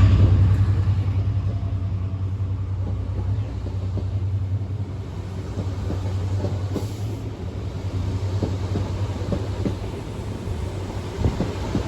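Class 55 Deltic diesel locomotive with twin Napier Deltic engines giving a steady low drone, which drops in level over the first couple of seconds and then holds. Short clicks from the wheels on the track come more often near the end.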